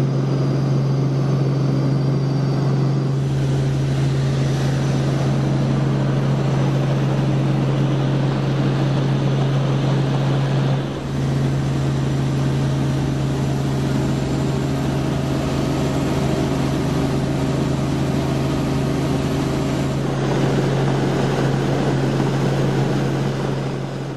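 Robinson R44 Raven II helicopter running steadily, a loud drone with a constant low hum, its six-cylinder Lycoming engine and rotors. There is a brief dip in the sound about eleven seconds in.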